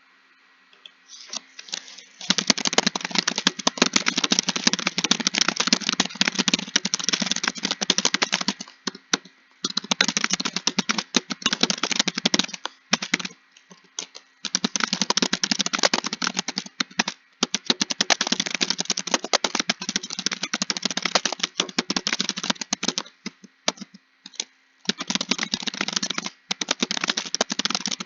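Computer keyboard typing: fast, continuous runs of keystrokes starting about two seconds in, broken by a few short pauses.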